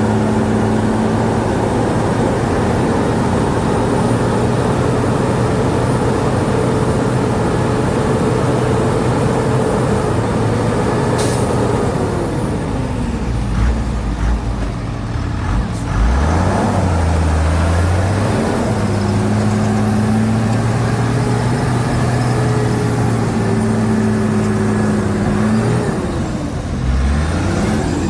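Shantui DH17C2 bulldozer's heavy diesel engine running steadily under load. Its pitch drops and climbs back about halfway through and again near the end, with a short hiss a little before the first drop.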